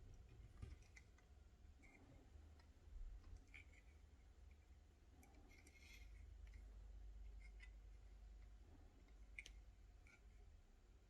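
Faint, scattered clicks and taps of plastic LEGO pieces being handled, with a brief rustle about six seconds in, over a low steady hum.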